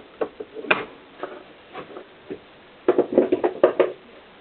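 Small clicks and knocks of metal engine parts and tools being handled on a workbench, with a quick flurry of rattling knocks about three seconds in.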